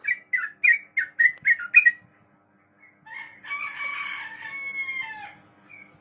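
Yellow-vented bulbul (trucuk) singing. A run of about seven quick, bright notes comes in the first two seconds, then a longer, rich chattering phrase about three seconds in.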